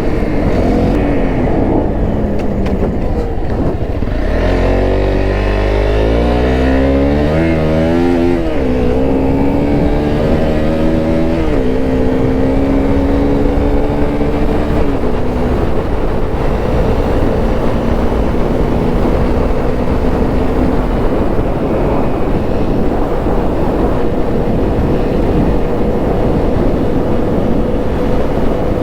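Honda CRF250L's single-cylinder four-stroke engine under way: the revs climb and drop sharply through several gear changes from about four to twelve seconds in, then it holds a steady cruising note.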